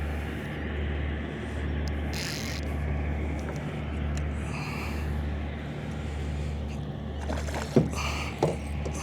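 Low engine drone of a passing barge's tow, swelling and fading about once a second, with two short sharp sounds near the end.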